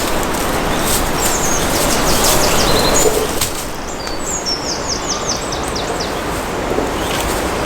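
A small songbird singing two quick runs of high chirps, over a steady rushing noise on the microphone.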